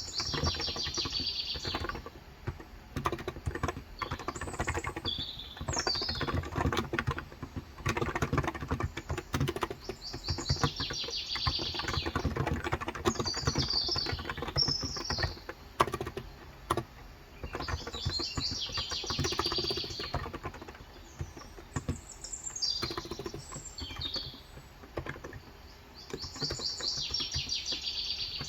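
Fast, continuous typing on a COX Endeavor electro-capacitive (non-contact, 35 g) tenkeyless keyboard, keystrokes clicking in quick runs. Small birds chirp in short bursts every few seconds behind it.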